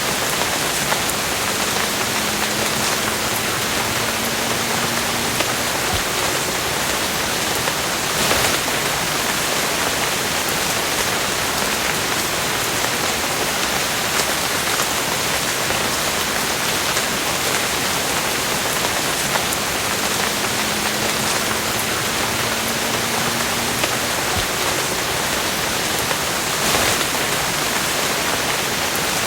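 Steady, heavy rain falling on a surface, a dense even hiss with a couple of louder spatters.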